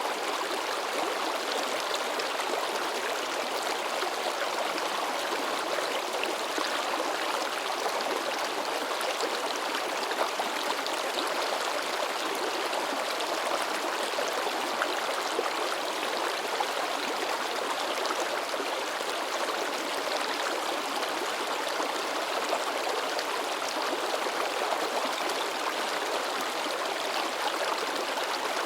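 A river babbling over rocks: steady rushing and splashing water with small gurgles throughout.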